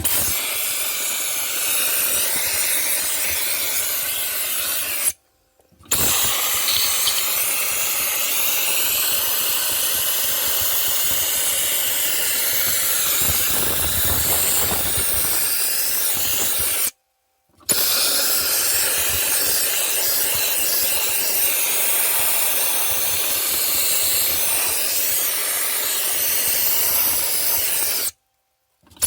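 Dry ice blaster (IC022 Evo) spraying dry ice pellets on compressed air onto an engine bay: a loud, steady hiss that stops briefly three times.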